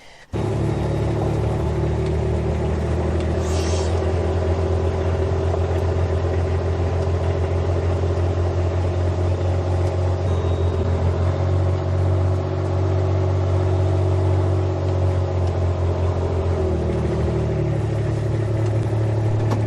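A vehicle engine running steadily with a low, even drone that settles to a slightly different pitch about three quarters of the way through.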